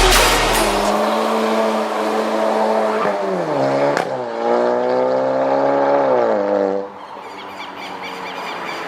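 VW Golf GTI Mk7's turbocharged four-cylinder engine through a Remus sport exhaust, running under load. Its note holds steady, drops in pitch about three and a half seconds in with a sharp snap at about four seconds, then holds again before falling away and fading near seven seconds.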